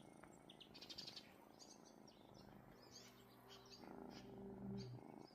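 Small birds chirping in short, quick calls. A low steady hum joins about halfway through, grows louder and stops shortly before the end.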